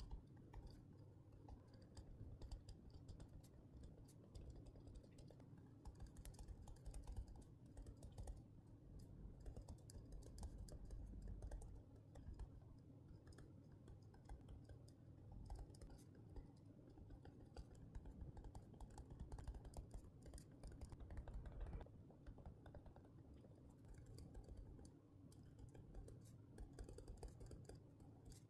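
Faint, rapid small clicks and scratches from hands at work on a paper journal with stationery, with a few soft low thumps.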